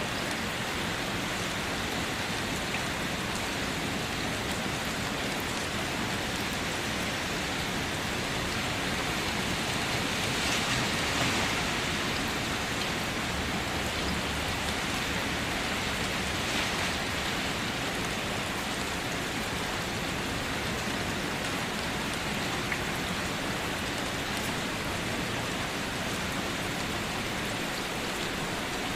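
Steady rain falling, an even hiss with scattered drops, swelling a little about ten seconds in.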